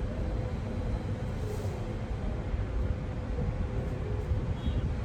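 Steady low background rumble with a faint, constant hum above it; no distinct clicks or cutting sounds stand out.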